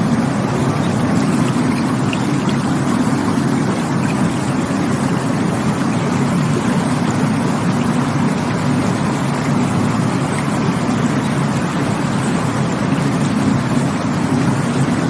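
Rushing water from a stream or waterfall: a steady, unbroken rush with most of its weight in a low rumble.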